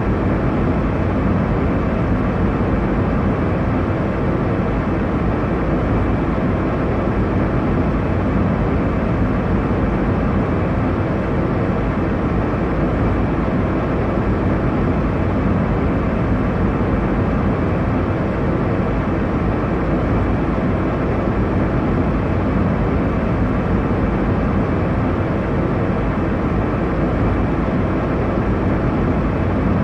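Steady low roar of an airliner cabin in flight: engine and airflow noise, even and unchanging, strongest in the low range and muffled in the highs.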